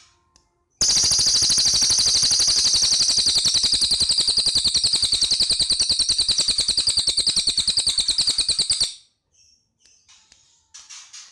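Cililin bird singing a loud, very rapid, machine-gun-like trill of high notes that runs unbroken for about eight seconds, then stops abruptly; fainter short chirps come right at the start and near the end.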